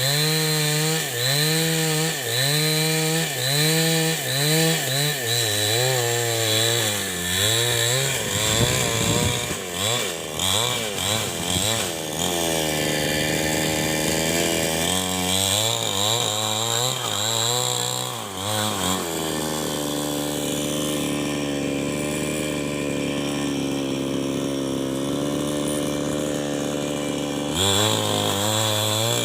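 New West 788 two-stroke chainsaw ripping wood lengthwise along the grain, its engine pitch repeatedly rising and falling under load for much of the time. It holds a steady pitch for several seconds and changes pitch again near the end.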